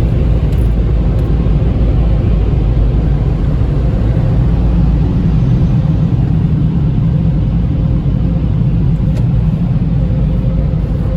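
Tunnel car wash dryer blowers running at full blast over the car, heard from inside the cabin as a loud, steady rumble of rushing air with a constant hum.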